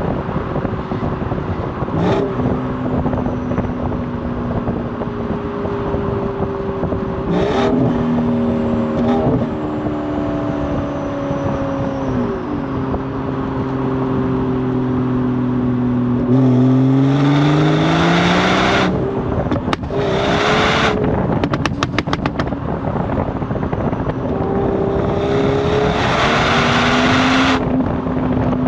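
BMW 440i's Gen 1 B58 turbocharged inline-six exhaust, the engine note holding and then rising and falling with the revs. There are two louder stretches of hard acceleration, one about two-thirds of the way in and one near the end, with a quick run of exhaust pops and crackles from the tuned burble setting between them.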